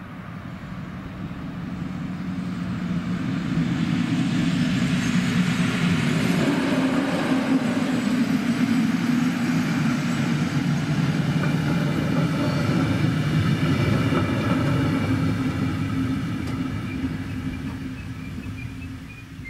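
Passenger train passing over a level crossing: a low rumble of wheels on rail that builds over the first few seconds, holds loud for about ten seconds as the train goes by, then fades away near the end.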